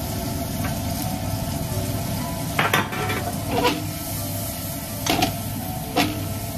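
Onion, bell pepper, mushrooms and hot dog frying in butter in a wok-style pan, sizzling steadily, with a steady low hum underneath. The food is stirred with wooden chopsticks, giving four short knocks against the pan from about two and a half seconds in.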